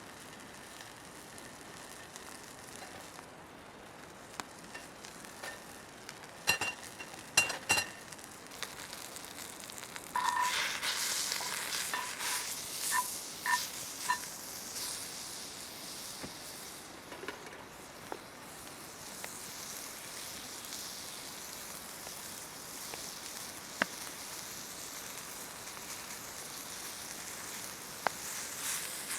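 Food sizzling in camp cookware, a steady hiss that grows louder about ten seconds in, with short metallic clinks and a few sharp clicks.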